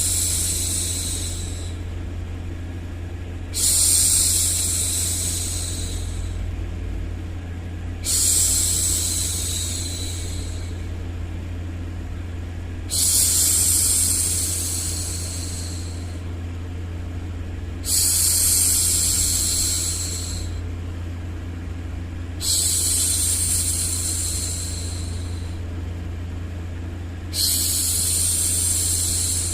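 A woman's voice making long, soothing 'shhh' hushing sounds, one every four to five seconds, each starting sharply and trailing off over about two seconds. Underneath runs a steady, low white-noise hum.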